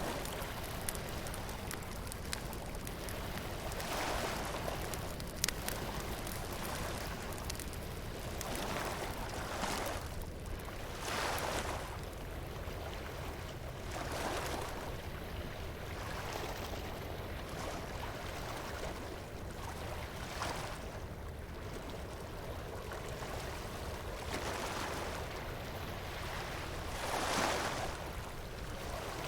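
Surf washing ashore in a continuous hiss that swells every few seconds, the biggest waves near the middle and near the end. A bonfire crackles over it with a few sharp pops in the first few seconds.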